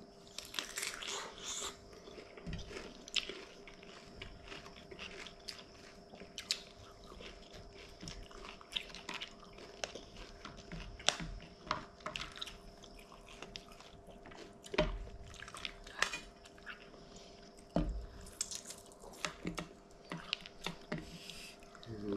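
Close chewing and crunching of crispy fried anchovy sambal and raw cucumber, with scattered sharp clicks and clinks of a metal spoon against a glass jar and a plastic plate. A faint steady hum runs underneath.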